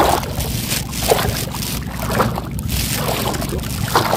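Choppy reservoir water sloshing and slapping in irregular splashes about once a second, over a steady low rumble of strong wind on the microphone.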